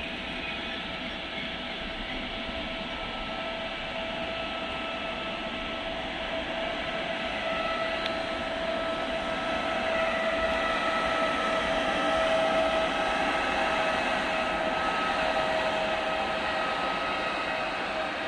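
Trenord passenger train with an electric locomotive at its end running past, a steady rolling rumble from the wheels on the rails with a steady whine from the locomotive on top. It grows louder toward the middle as the locomotive passes, then eases off.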